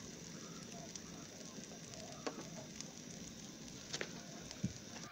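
Egg omelette mixture frying in oil in a pan: a faint, steady sizzle, with a few light clicks about two and four seconds in.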